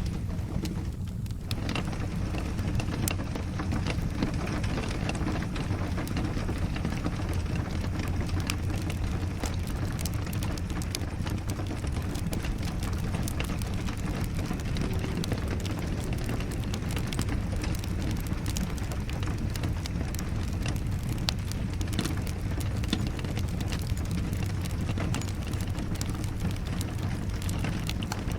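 Steady rain with a crackling wood fire: a dense, even hiss over a low rumble, scattered throughout with sharp pops and ticks.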